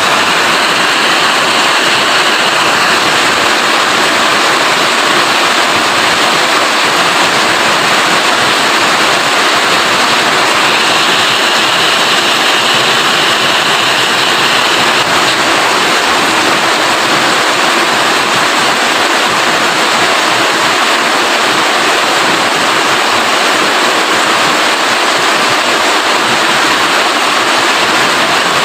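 Steady, loud rain falling in an even hiss, with no let-up or single drops standing out.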